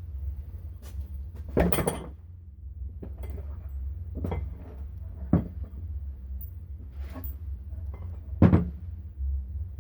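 Hard objects being handled and set down on a work surface: a string of separate knocks and clinks, the loudest about two seconds in, about halfway, and near the end, over a low steady hum.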